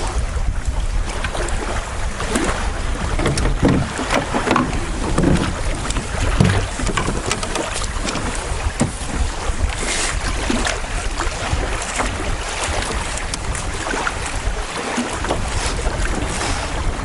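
Wind buffeting the microphone in a steady low rumble, with water lapping and splashing irregularly around a moving canoe.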